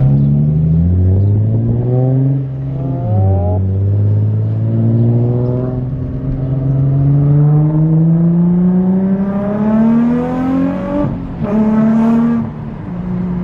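Sports car engine accelerating hard through the gears. The revs climb, drop at an upshift about three seconds in, climb long and steadily, and drop again about eleven seconds in, before settling to a steady cruise near the end.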